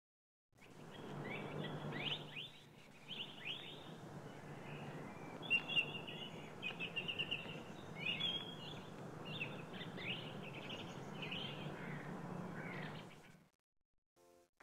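Birds chirping in quick short bursts over a steady outdoor background noise with a low hum, an ambience bed. It comes in about half a second in and cuts out about a second before the end.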